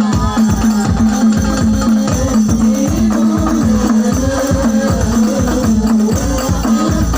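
Sholawat hadroh ensemble playing an instrumental passage: frame drums and tambourine keep a steady, fast rhythm under a held melody line.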